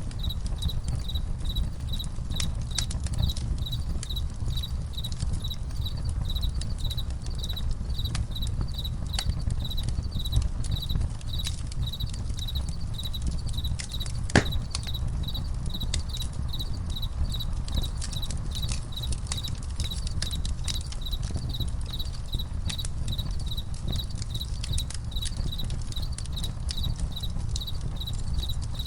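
Campfire crackling, with scattered sharp pops over a low rumble and one louder pop about halfway. Crickets chirp in a steady, evenly pulsed high trill behind it.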